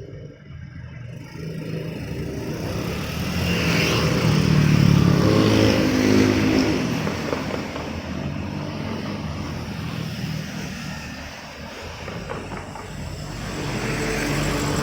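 A motor vehicle passes, its engine growing louder to a peak about five seconds in and then fading, before another vehicle approaches near the end.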